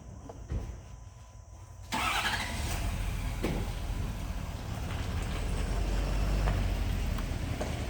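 Car engine starting about two seconds in, then running steadily at idle.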